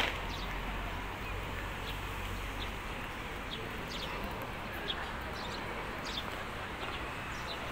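Steady outdoor background noise with a scattered few short, faint, high bird chirps.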